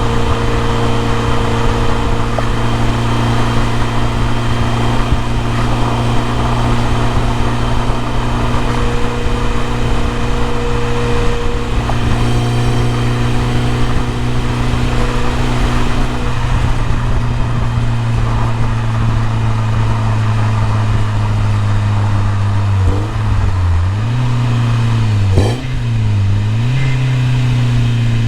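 BMW E30 M3's S14 four-cylinder engine running steadily at idle. Near the end its pitch dips and comes back up a few times, with one sharp click among them.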